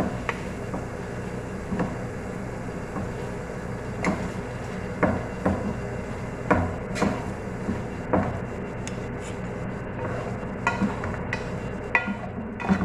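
Utensil scraping and knocking against a cooking pan as a filling is stirred, in irregular strokes, over a steady low hum.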